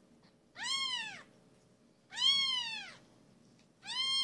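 Five-day-old Canadian Sphynx kitten mewing: three high cries about a second and a half apart, each rising then falling in pitch, the last one longer.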